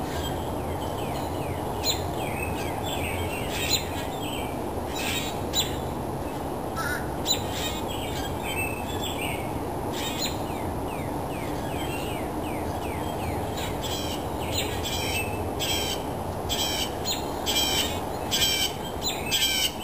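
Morning birdsong: scattered short chirps, then a run of loud calls, several a second, in the last few seconds, over steady low background noise.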